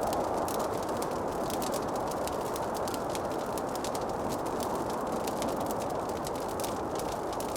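Wood fire crackling in a fireplace: many quick small pops and snaps over a steady hissing whoosh.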